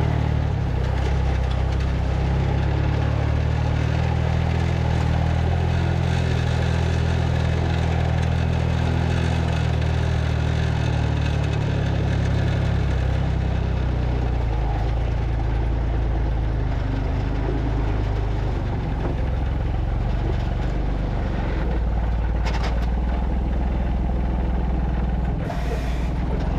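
Delivery truck's engine running steadily while driving, a low hum whose pitch shifts a little partway through.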